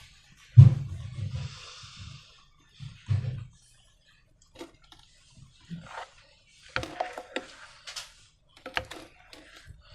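Slime being handled: irregular soft thuds and clicks, the loudest thud about half a second in, with sticky crackling clicks later on.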